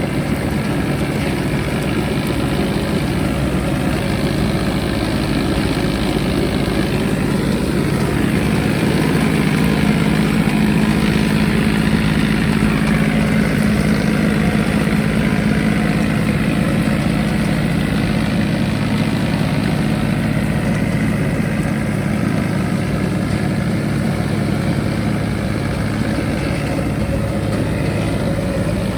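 John Deere 5039 tractor's diesel engine running steadily, a little louder for a few seconds near the middle.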